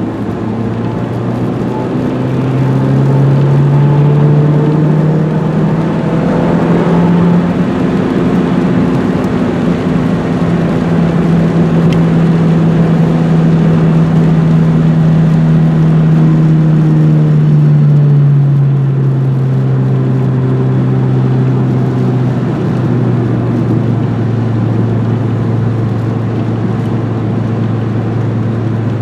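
Renault 21 GTS's 1.7-litre carburetted four-cylinder engine under way: its pitch rises over the first few seconds, holds steady through the middle, then drops back about two-thirds of the way in as the car eases off.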